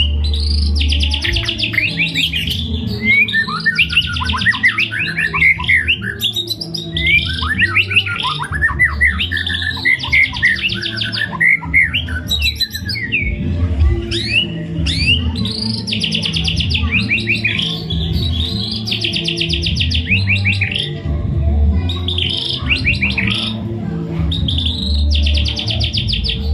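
White-rumped shama (murai batu) singing a long, varied song of fast trills and sweeping whistled notes with short pauses between phrases. The song is packed with mimicked calls of other birds.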